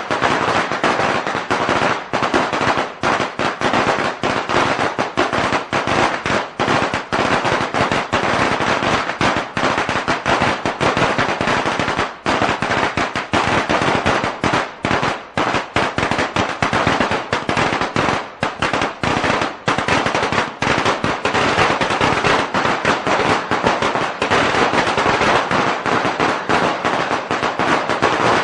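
A long string of firecrackers going off in a continuous rapid crackle of sharp bangs, with only the briefest pauses.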